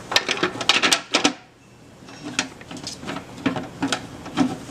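Enclosure lid being fitted back on: a quick cluster of sharp clicks and knocks, then after a short pause a run of small irregular clicks and taps.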